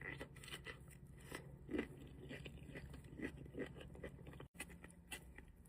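Crunchy food being bitten and chewed close to the microphone, with irregular crisp crackles throughout.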